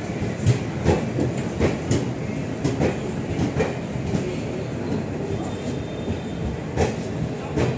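Passenger coaches rolling past at low speed, their wheels clacking over the rail joints with a knock every half second to a second over a steady rumble.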